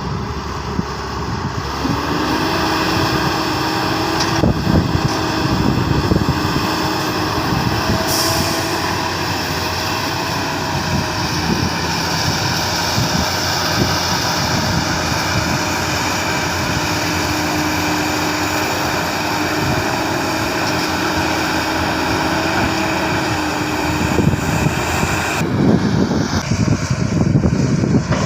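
Heavy diesel earthmoving machinery working: engine running with a steady whine from about two seconds in until near the end. There is a short hiss about eight seconds in.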